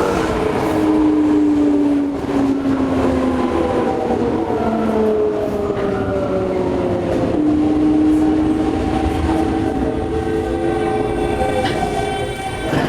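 Toei 5300-series electric train running, heard inside the carriage: the VVVF inverter and traction motors whine in several tones that slide down in pitch and jump to new notes, over the steady rumble of wheels on rail.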